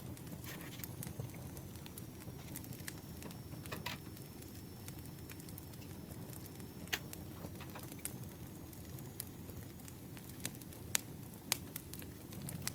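Campfire crackling: a steady low rumble of burning with scattered sharp pops and snaps.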